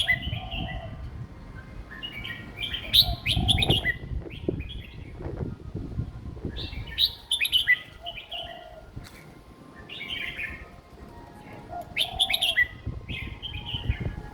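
Young red-whiskered bulbul singing short, simple song phrases, one every four to five seconds, over a low rumble.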